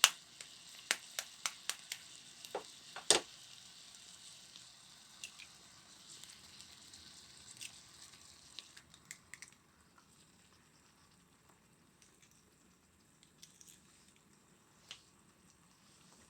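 Food frying in a small pan on a spirit stove: a steady high sizzle scattered with sharp crackles and pops, the sizzle dying away about nine seconds in, leaving only the odd click.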